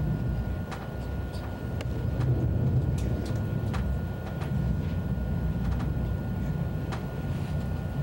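Steady low rumble of an ICE 1 high-speed train running, heard from inside the carriage. Irregular sharp clicks are scattered through it, and a thin steady high whine runs throughout.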